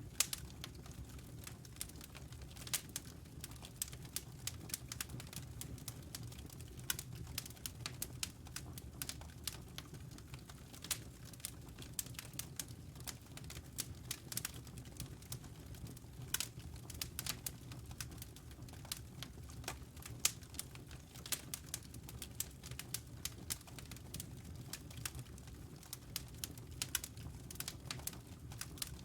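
Log fire crackling in a fireplace: irregular sharp snaps and pops, several a second, over a steady low rumble.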